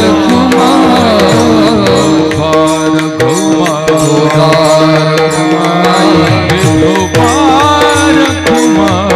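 Marathi devotional bhajan music: a steady drone under a wavering sung or played melody, with regular pakhawaj drum strokes.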